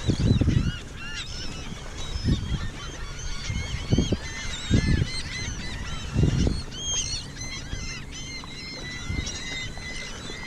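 A large flock of seagulls calling over one another: many short, overlapping cries. Low rumbling gusts of wind hit the microphone every second or two.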